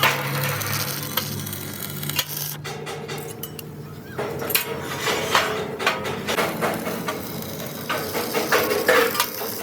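Metalworking clatter: irregular metal knocks and clinks over a steady low machine hum, with a tone near 500 Hz that comes and goes.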